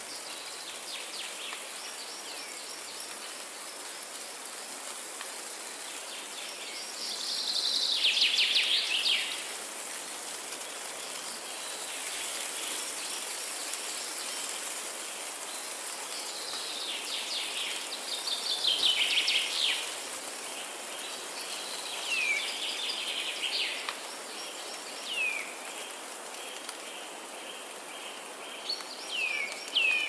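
Wild songbirds singing, with rapid trills loudest about a quarter of the way in and again past the middle, and short downward-sliding whistled notes toward the end. Underneath runs a steady high hiss.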